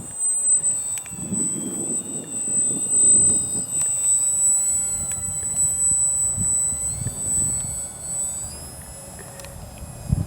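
Electric motor and propeller of a Durafly Micro Tundra RC plane in flight: a high-pitched whine whose pitch wavers and shifts near the end. Wind buffets the microphone underneath.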